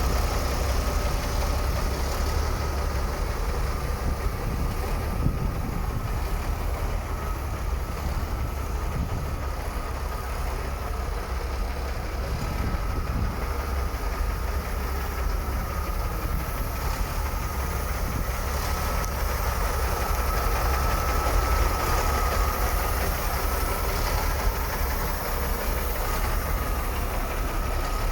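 MAN F2000 truck's inline-six turbo diesel engine idling steadily, with a deep low rumble and a faint steady whine above it.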